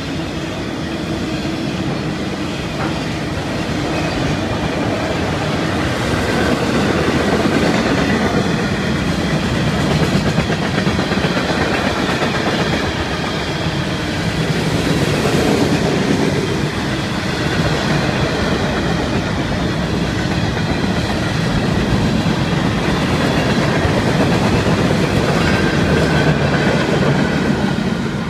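Freight cars of a Florida East Coast Railway train rolling past close by: a steady, loud rumble and clatter of steel wheels on the rails, swelling and easing slightly as different cars go by.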